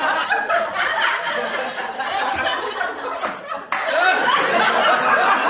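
Several people's voices talking and laughing over one another, dropping briefly about three and a half seconds in and then coming back abruptly.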